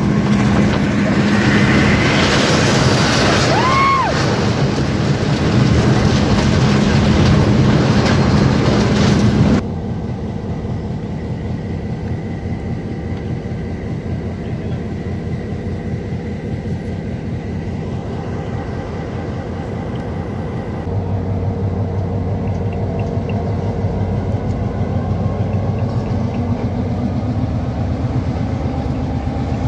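Train locomotive engines humming steadily, with one brief squeal that rises and falls about three or four seconds in. After an abrupt cut about ten seconds in, the quieter steady rumble of the train running is heard from a carriage.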